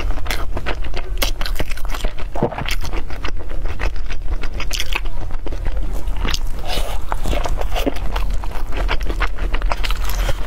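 Biting and chewing of soft, sticky red-skinned dumplings, with many quick wet mouth clicks and smacks and some crunching from the peanut and water chestnut filling.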